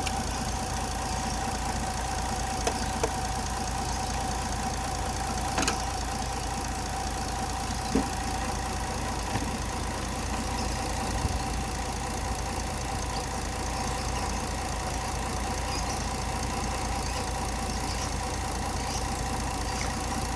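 Mitsubishi Galant V6 engine idling steadily, with a steady whine above the idle and a few light clicks.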